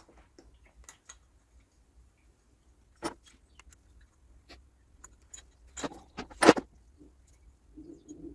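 Scattered sharp clicks and clinks of small metal parts and tools being handled while an espresso machine is taken apart. The loudest pair of clicks comes a little past the middle.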